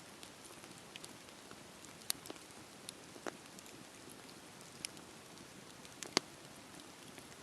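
Bonfire crackling: a steady soft hiss with scattered sharp pops, the loudest about two seconds in and again about six seconds in.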